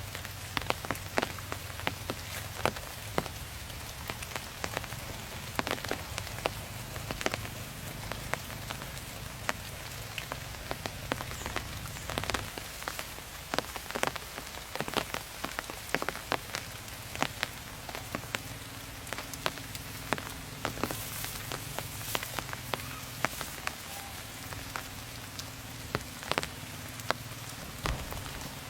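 Rain falling, individual drops tapping sharply and irregularly over a steady hiss.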